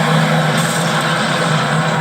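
Motor vehicle engines running hard at speed, a steady loud drone.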